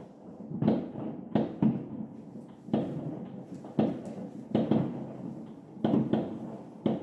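Fireworks bursting across the city, a string of sharp bangs, often in quick pairs, about every half second to a second, each trailing off in a short echo.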